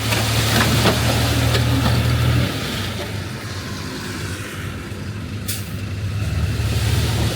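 Heavy diesel earthmoving machinery running with a steady low engine note. The engine drops sharply to a lower level about two and a half seconds in, then builds up again near the end.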